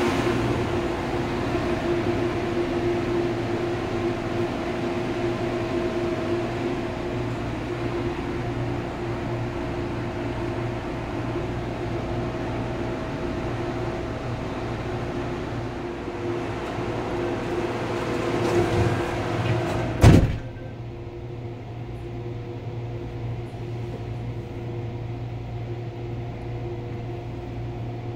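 Steady running noise inside an MTR Airport Express train carriage: a hum with a few held tones. About two-thirds of the way through there is a single sharp knock, after which the sound is quieter and duller.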